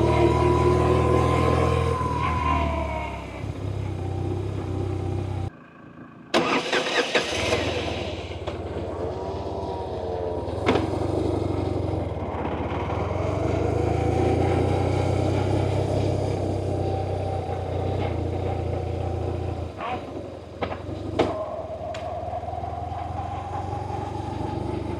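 BMW R1100RT's air/oil-cooled boxer-twin engine running under way, its revs rising and falling. The sound drops out briefly about six seconds in and comes back with a rush of wind noise, and there are a few sharp clicks in the second half.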